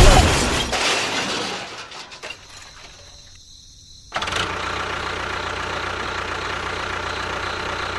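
A loud noisy sound dies away over the first couple of seconds. About four seconds in, the small motor of a homemade mini tractor or bulldozer cuts in abruptly and runs steadily.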